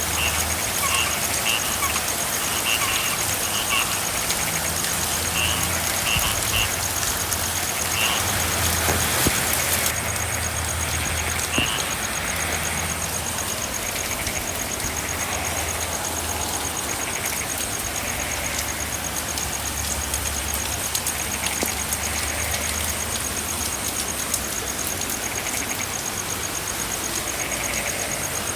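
Steady rain with frogs calling. Quick, repeated chirping notes come over the first dozen seconds, then softer croaks, over a low rumble.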